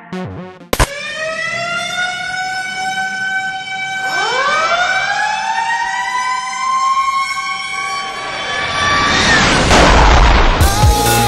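Siren: a sharp hit about a second in, then a siren tone slowly falling in pitch, joined about four seconds in by a second siren tone winding up and holding. A rising whoosh builds near the end.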